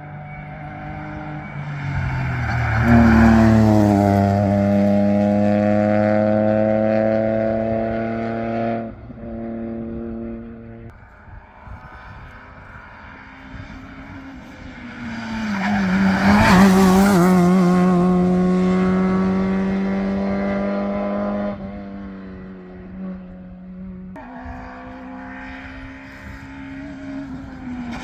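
Modern rally cars at full throttle on a special stage, passing close twice. Each engine note climbs and holds high, then cuts off sharply. A third car is coming in near the end.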